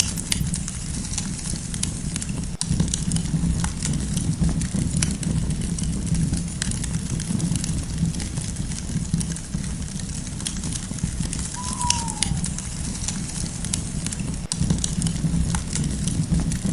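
Campfire crackling: scattered small pops and snaps over a steady low rumble of burning wood. One short falling whistle-like call about twelve seconds in.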